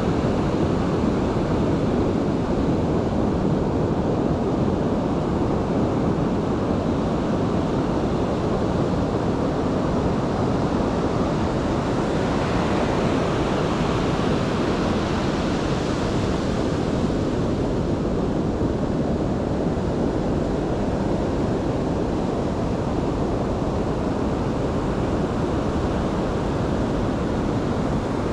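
Steady roar of Pacific Ocean surf, an even rushing noise without breaks that turns a little hissier for a few seconds around the middle.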